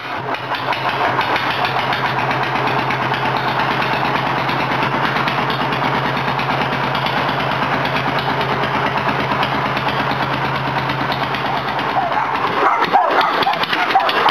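Tractor engine running steadily with a fast, even firing beat. About twelve seconds in, the steady note drops away and rougher, irregular sounds take over.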